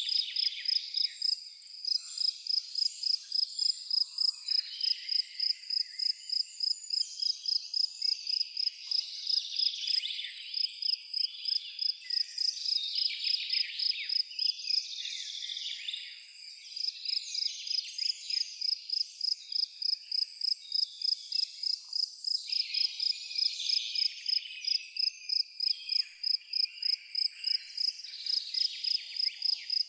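A cricket chirping in a steady, even pulse of about two to three high chirps a second, pausing briefly around the middle, over a busy background of high twittering calls.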